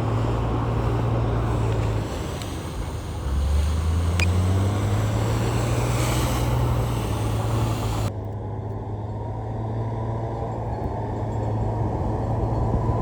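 Heavy diesel engines of earthmoving machinery running. The engine note dips and then rises again about two to four seconds in, and a higher hiss of clatter stops abruptly about two thirds of the way through.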